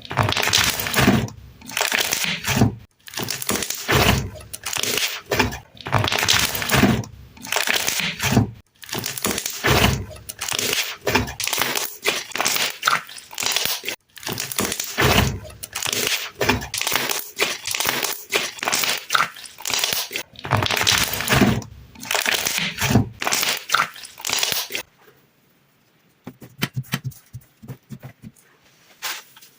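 Sticky slime being squeezed and pulled by hand, giving repeated crunchy crackling and popping sounds in bursts about a second long. About 25 seconds in, this gives way to a few faint clicks.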